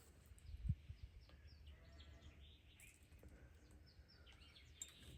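Faint birdsong: scattered short chirps over a low outdoor rumble, with one soft low thump just under a second in.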